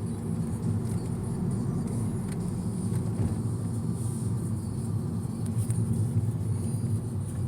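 Steady low rumble of a car driving: road and engine noise from a moving car.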